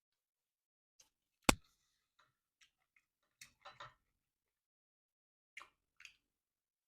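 A single sharp click, then a few softer clicks and brief rustles with quiet between them.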